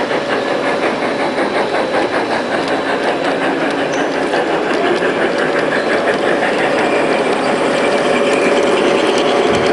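Model train running on a layout's track, its wheels making a fast, steady clicking over the rail joints, getting slightly louder toward the end.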